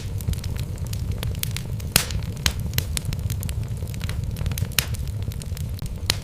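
Wood logs burning in a fireplace, crackling with irregular sharp pops and snaps, a few of them louder, over a steady low rumble.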